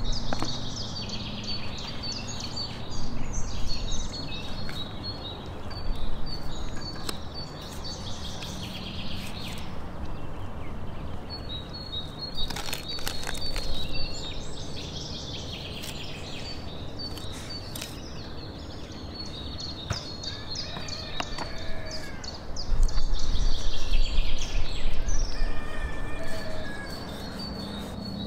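Small songbirds chirping in quick repeated runs, over a steady low outdoor rumble that swells louder for a few seconds near the end. A few sharp knocks of a knife against a wooden cutting board as raw poultry is cut up.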